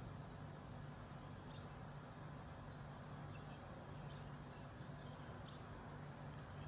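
Small birds chirping faintly, three short high chirps, over a steady low background hum.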